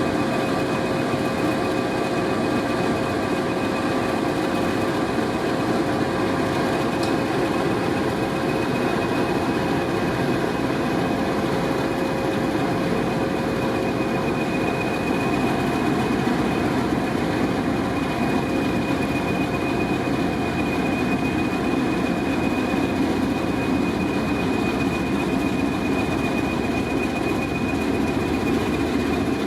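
Class 20 English Electric 1000 hp diesel locomotive running steadily under way, an even engine rumble with a steady whine on top and no change in pitch.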